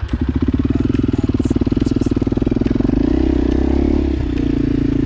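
Motorcycle engine running hard at steady high revs with a fast, even beat. Its note shifts about three seconds in and dips briefly just after four seconds.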